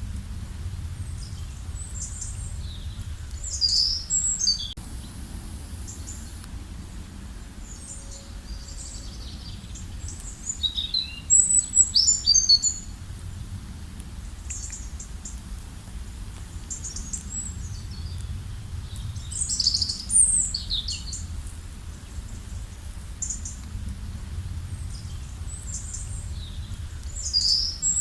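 Songbirds chirping and singing in bursts of quick, high notes, several sliding downward, with the loudest burst near the middle, over a steady low rumble.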